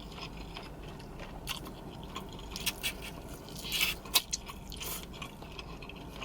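Close-up chewing of tandoori chicken, with scattered wet mouth clicks and smacks, the loudest cluster about four seconds in.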